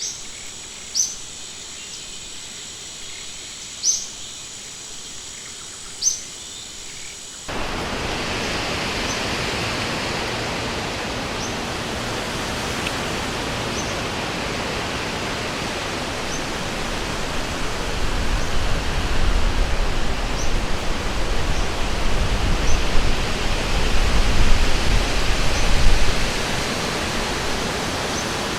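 A few short bird chirps over a steady high insect drone, then an abrupt switch about seven seconds in to the steady rush of a flowing river, with faint regular chirps above it. The water grows louder and deeper for a stretch near the end.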